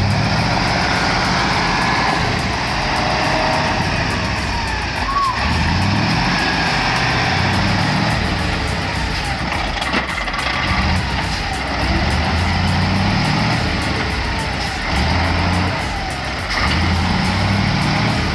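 Logging truck's engine running hard under load, rising and falling repeatedly as the truck strains to pull itself out of deep mud.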